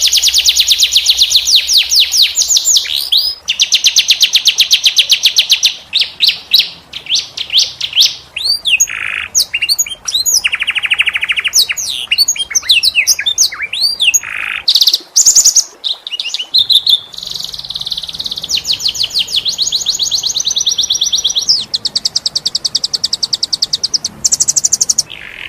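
Domestic canary singing: long, very rapid rolling trills of a few seconds each, broken by short swooping whistled notes, with one lower-pitched trill partway through.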